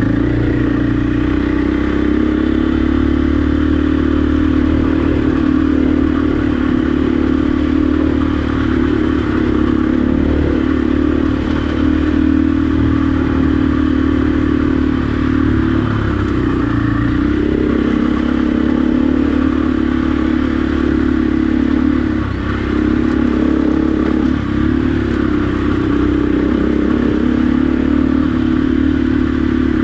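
Husqvarna dirt bike engine running steadily while riding, its pitch wavering with the throttle and dipping briefly a few times, with some clatter.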